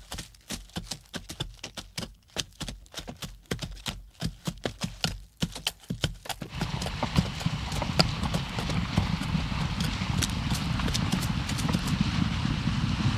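Hooves clip-clopping in a quick, uneven patter. About halfway through, a steady low rushing noise takes over, with only a few hoof clicks left.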